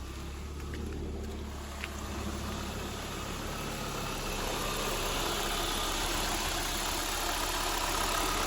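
A 2.2-litre turbocharged inline-five engine idling steadily and quietly just after a cold start, its engine temperature still cold, growing slightly louder a few seconds in.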